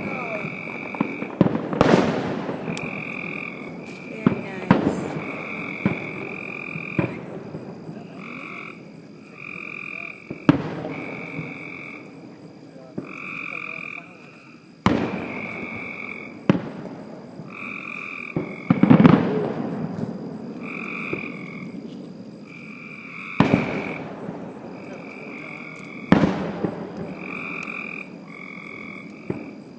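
Fireworks shells bursting with booms and crackle every few seconds, about ten in all, the loudest near the middle. Between the bursts a frog croaks over and over in short regular calls.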